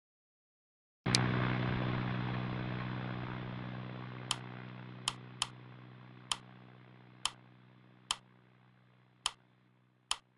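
Cessna Caravan's turboprop engine hum at a steady pitch, cutting out for about a second at the start and then fading evenly toward silence. Sharp clicks sound over it at uneven intervals, about nine in all.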